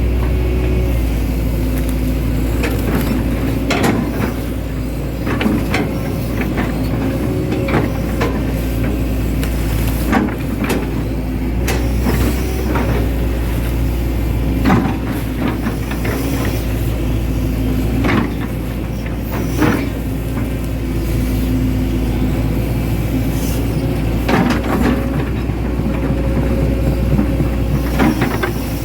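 Hitachi Zaxis 110 hydraulic excavator's diesel engine running steadily at work, with sharp knocks and clunks every few seconds.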